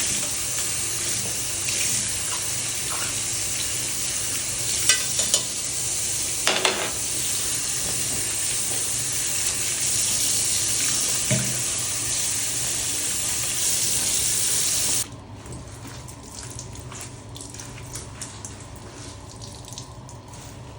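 Water running from a tap, cut off abruptly about three-quarters of the way through, followed by quiet wet handling sounds.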